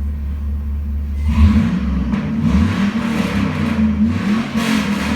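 2003 Chevy Silverado's LM7 5.3-litre V8 idling, then revved in several quick blips from about a second in, settling back to idle near the end. The engine responds quickly to the throttle.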